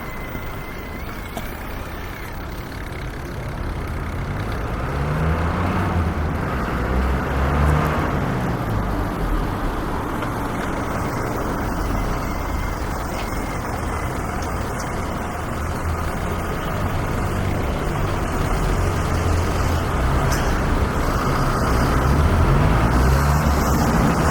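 City street traffic: a steady rumble of passing cars and heavier vehicles, with engines audibly rising and falling in pitch several times as they speed up.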